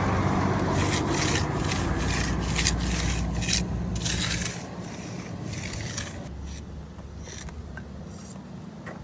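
A hand tool scraping and rubbing over fresh concrete in repeated strokes, about two to three a second, over a steady low engine rumble. The strokes fade out about halfway through, leaving the rumble.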